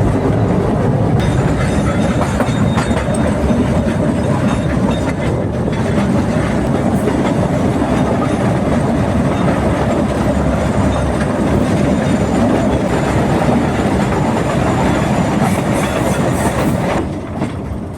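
Narrow-gauge (600 mm) forest railway train running, its wheels rattling and clacking over the track. The sound stays steady, then drops noticeably near the end.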